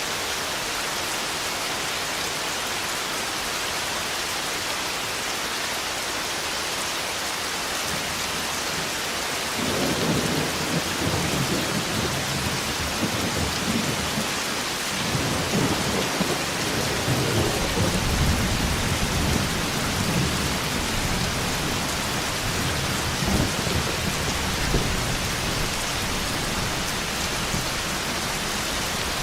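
Steady heavy rain with rolling thunder: a rumble swells in about ten seconds in, and a second, longer rumble follows shortly after and fades in the last few seconds.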